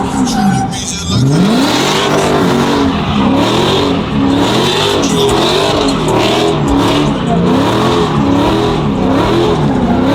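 A car engine revved up and down over and over in a burnout, with the hiss of spinning tires.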